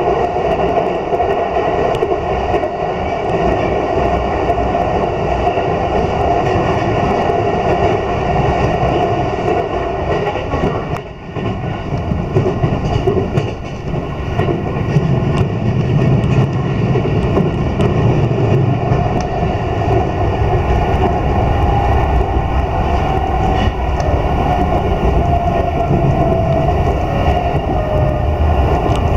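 Running noise of a Keiyo Line electric commuter train heard from inside the carriage while it travels at speed: a steady rumble of wheels on rail, briefly quieter about eleven seconds in.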